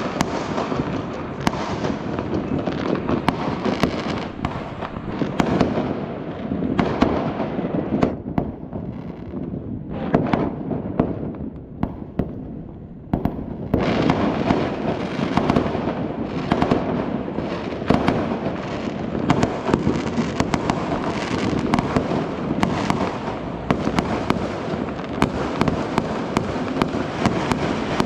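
Fireworks and firecrackers going off densely and continuously, a steady crackle packed with sharp bangs. It thins out for a few seconds about nine to thirteen seconds in, then picks up again suddenly.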